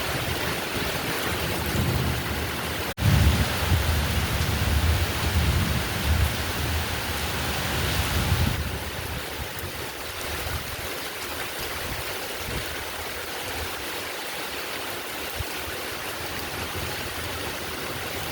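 Heavy rain falling steadily. About three seconds in, a low roll of thunder rumbles for several seconds and dies away before the halfway point, leaving the rain on its own.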